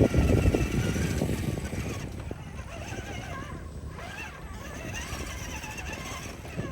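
Electric RC scale crawler driving on dirt, its brushed motor and drivetrain whining, loudest in the first second or so, then easing off.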